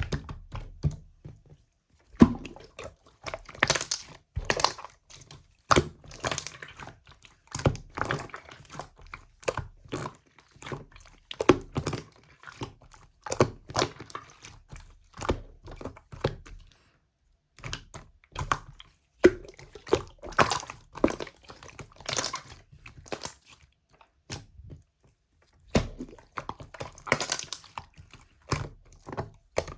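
Slime being squished, pressed and stretched by hand: a dense run of sticky clicks, pops and crackles in clusters, with a couple of brief pauses.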